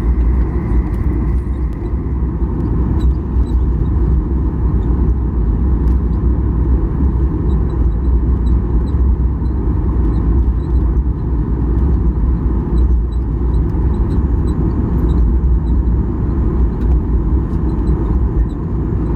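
Cabin noise inside a Boeing 737-800 taxiing after landing: a steady low rumble of its CFM56 engines at idle and the rolling gear, with faint high ticks now and then.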